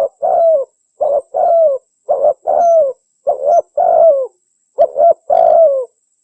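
Spotted dove (tekukur) song: a repeated phrase of a short coo followed by a longer coo that falls in pitch, about once a second, stopping near the end. It is the recorded call used as a lure to draw in wild spotted doves.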